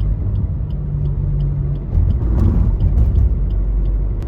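A car driving: a steady low engine and road rumble that swells a couple of seconds in, with a faint regular ticking about twice a second.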